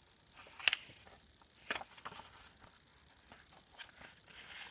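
Paper handled by hand: a few short rustles and light taps as the journal's pages, tags and tuck spots are touched and turned.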